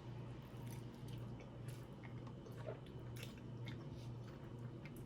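Faint close-up eating sounds: a person chewing, with scattered small wet clicks and crackles, over a low steady hum.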